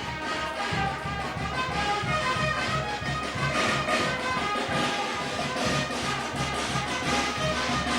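Brass band playing: trumpets and trombones carry a melody over a steady bass-and-drum beat.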